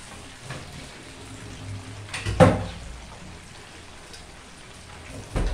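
A steady hiss of food frying in hot oil, with a loud knock about two seconds in and another near the end.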